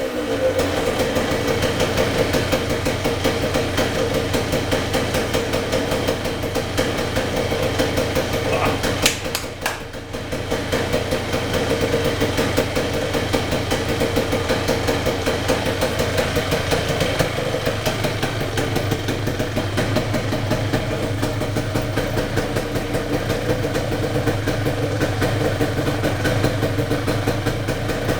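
1978 Yamaha DT175MX's single-cylinder two-stroke engine running steadily at idle on its first start after a full rebuild with new crank bearings, seals, piston and rings. About nine seconds in there is a sharp click, and the engine note dips for a moment before it steadies again.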